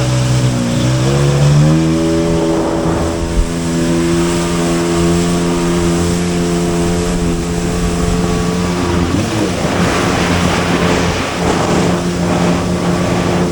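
Jet ski engine running at speed. It revs up about two seconds in, holds a steady pitch, then dips briefly a couple of times near the end.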